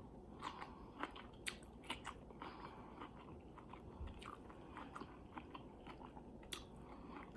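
A person chewing a mouthful of food close to the microphone, with small crunches and mouth clicks a few times a second.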